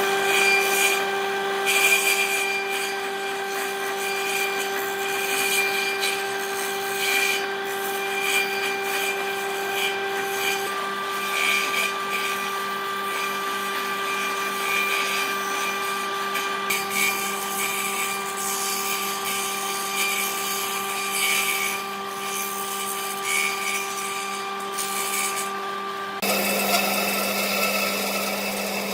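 Woodworking power tool running and working wood, a steady motor whine over a rough cutting and rubbing noise. The whine's pitch shifts about a third of the way in, and the sound changes again near the end.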